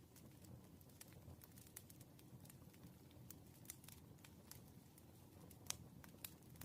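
Faint, irregular ticks and taps of a pen writing on paper, with one sharper tap near the end, over a low steady room hum.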